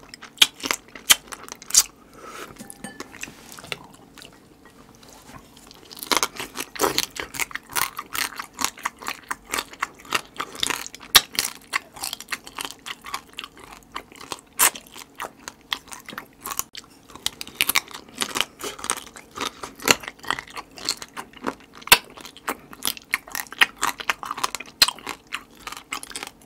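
Close-miked chewing and crunching of marinated raw crab: wet, irregular crunches of the shell and smacking bites, quieter for a few seconds early on before picking up again.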